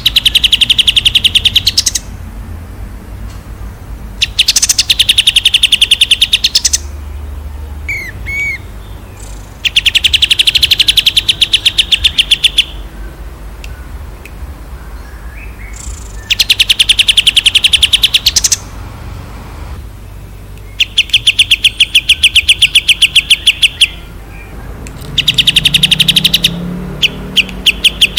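A songbird repeating loud, rapid trills of evenly spaced notes, each phrase lasting two to three seconds with short pauses between, about six phrases in all: a close, clean recording of birdsong made as 'masteran' for training cage birds.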